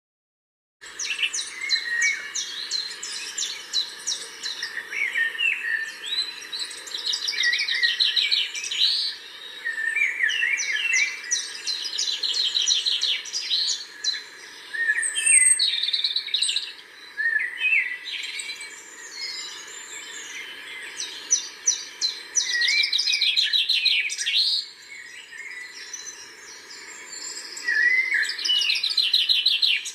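Several songbirds singing and chirping together, with rapid trills and short chirps overlapping throughout, over a faint steady background hum. It begins about a second in.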